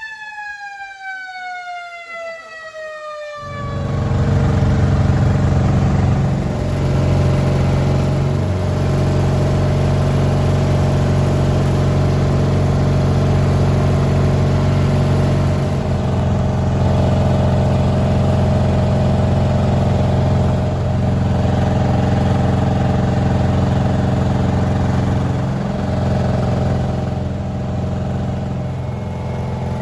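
A siren winding down in pitch, cut off about three seconds in by a loud vehicle engine running steadily close by, with a low hum.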